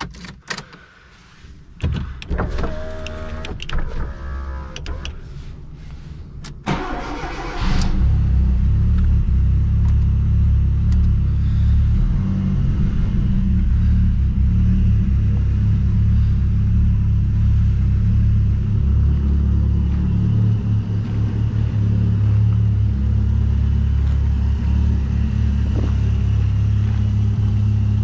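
Fiat Punto GT's turbocharged 1.4-litre four-cylinder engine starting, heard from inside the cabin: clicks and knocks, then the starter cranking about seven seconds in and the engine catching, then idling steadily and loud, deep and even, for the rest.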